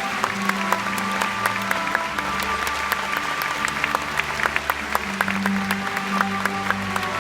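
Live music with sustained held chords, overlaid by audience applause: many scattered hand claps throughout.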